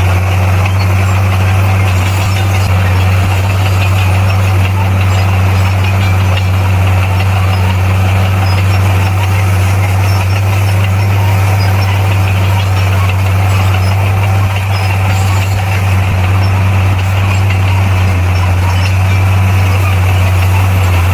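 Heavy earthmoving machine's diesel engine running steadily with a deep, even hum, without revving up or down.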